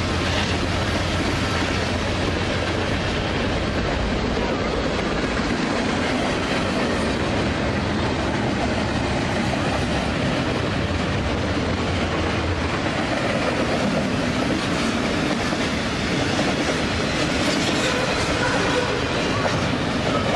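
A long freight train of refrigerator cars and double-stacked container cars rolling past at speed close by: a steady, loud noise of steel wheels on the rails.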